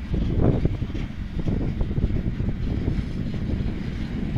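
Freight train rolling past: a steady low rumble of wagon wheels on the rails, with a few knocks about half a second in.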